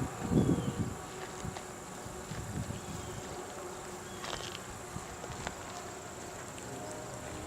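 Insects buzzing in a steady high-pitched drone, with a few faint short chirps and a low rumble of wind on the microphone in the first second.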